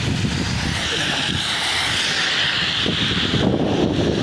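Heavy rain pouring steadily, mixed with wind buffeting the microphone.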